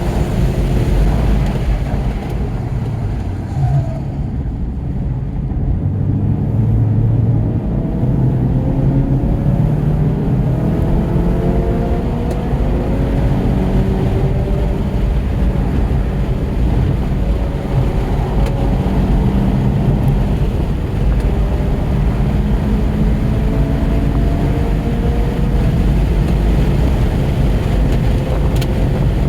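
2017 Volkswagen GTI's turbocharged 2.0-litre four-cylinder engine running hard on track, its note climbing and dropping again and again through gear changes and braking, over steady road and wind noise.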